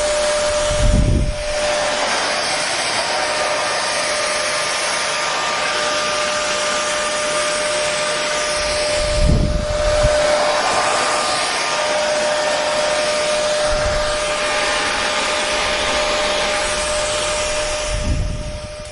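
Hair dryer running steadily: an even rushing hiss of air with a constant high motor whine. A short low thump comes about a second in, again halfway through and near the end, the last one as the sound dips.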